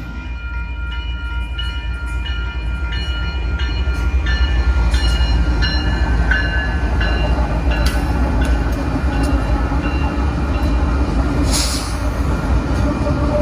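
Freight train passing at speed: a heavy low rumble that grows louder a few seconds in, with regular clicks of the wheels over the rail joints about one and a half times a second and a short hissing burst near the end.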